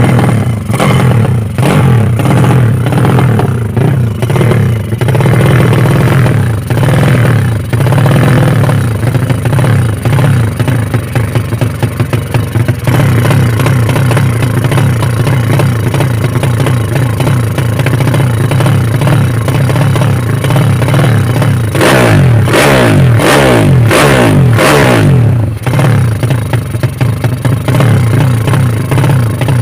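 High-compression tuned motorcycle engine running loud through its exhaust, idling unevenly, then revved in several quick blips about three-quarters of the way through.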